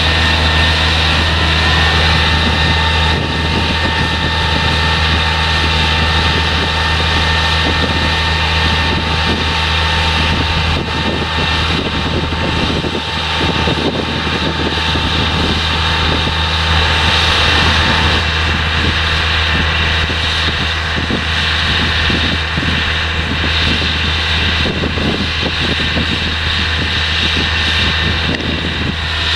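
Heavy diesel farm machinery running steadily under harvesting work: a constant low engine drone with a steady high whine over it.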